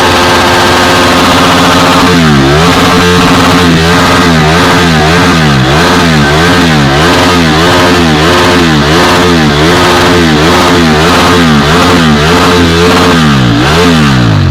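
KTM RC motorcycle's single-cylinder engine revved loudly through its exhaust: held at high revs for about two seconds, then blipped up and down over and over, roughly three revs every two seconds, before the revs drop away at the end.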